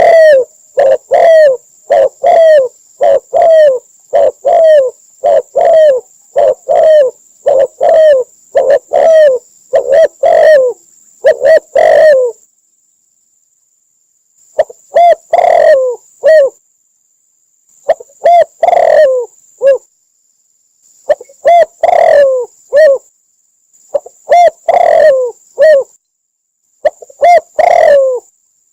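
Spotted dove cooing loudly. It gives a fast, even run of coos, about two a second, for roughly the first twelve seconds. After a pause of about two seconds it goes on in short phrases of two to four coos with gaps between them.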